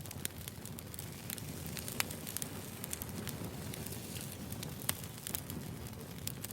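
Burning firewood crackling: a steady low rumble of flames with frequent sharp pops, two louder ones at about two seconds and near five seconds.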